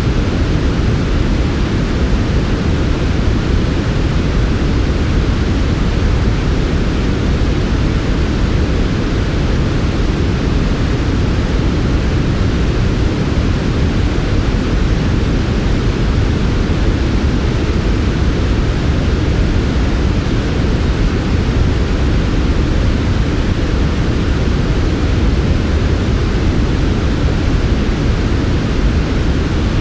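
Steady generated sleep noise, a soft 'white noise' that is darker than true white: an even, unbroken hiss with most of its weight low down and the highs muted, never changing.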